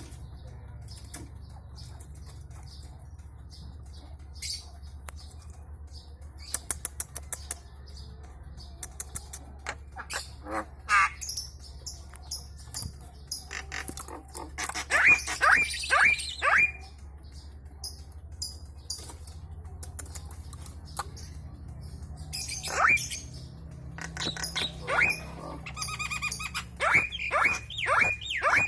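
Javan myna (jalak kebo starling) calling: scattered clicks and rattling chatter, then harsh squawks and runs of quick falling whistles about halfway through and again near the end. A steady low hum runs underneath.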